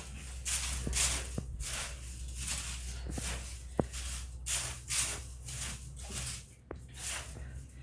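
Repeated swishing strokes, about two a second, over a steady low hum.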